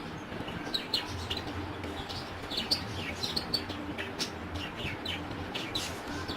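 Budgies chattering in a continuous stream of short, quick chirps, with a few sharp clicks among them.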